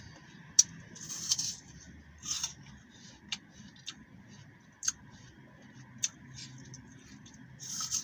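Close-up chewing of crisp green apple: irregular sharp crunches and wet bites, several short crackling bursts a second or so apart.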